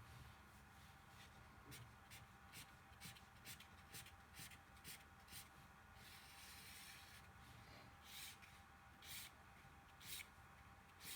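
Faint scratching strokes of a drawing tool across cardboard as stripes are drawn: a run of short strokes about two a second, one longer scribbling stretch about six seconds in, then a few single strokes near the end.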